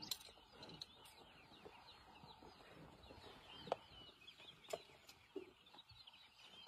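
Faint background birdsong: many short, high chirps from several birds, with a couple of soft clicks in the middle.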